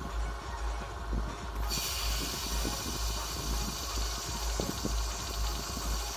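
A steady hiss starts suddenly about two seconds in: the water-cooled discharge load in a pot of water hissing as a lithium titanate battery pack is discharged through it, heating the water. Underneath, a cooling fan runs with a low, pulsing hum.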